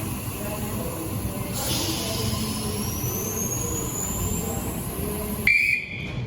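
Electric passenger train running through a station with a steady rumble, its motors giving a high whine that rises steadily in pitch as it picks up speed. Near the end comes a short, loud high-pitched tone.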